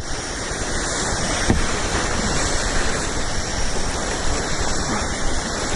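Steady rush of whitewater on river rapids.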